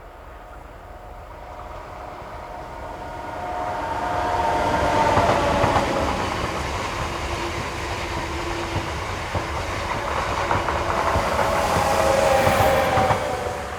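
A train passing close by on the line: the sound builds up over the first few seconds, with wheels clicking over rail joints and a whine of several tones, loudest around five seconds in and again near the end.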